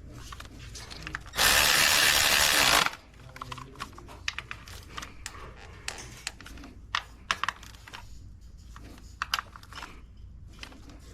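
A power tool runs loudly for about a second and a half and then stops sharply, followed by scattered clicks and light knocks of hand tools and parts as engine components are put back on.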